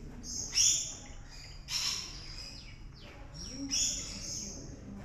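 Birds calling: short, high-pitched calls, three loud ones about half a second, two seconds and four seconds in, with fainter calls between.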